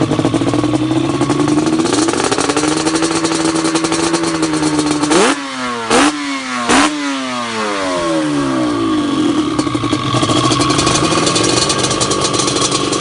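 Yamaha Banshee 350's twin-cylinder two-stroke engine, running Toomey aftermarket pipes, idling, then held at a higher speed before three quick throttle blips, each rising sharply and falling away. It settles back down to idle near the end.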